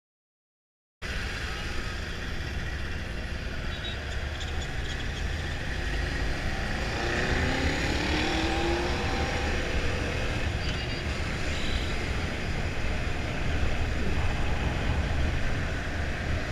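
Wind rushing over the microphone with a motorcycle engine running underneath, starting suddenly about a second in; around seven seconds in an engine note briefly rises. This is riding audio from a Yamaha FZ-07, a parallel-twin motorcycle.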